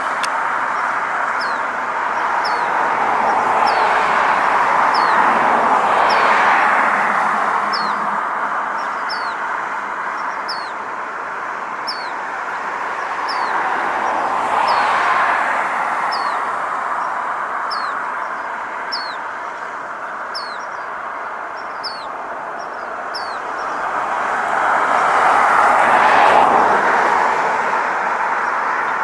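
Road traffic going by, a rush of tyre and engine noise that swells and fades several times, with a small bird repeating a short high chirp about once a second.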